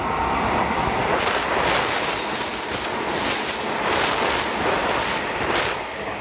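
Hanshin Railway 8000 series electric train running through the station at speed: a loud rush of wheels on rail with several sharp clacks over rail joints and a faint high wheel squeal. It dies down just before the end as the train clears.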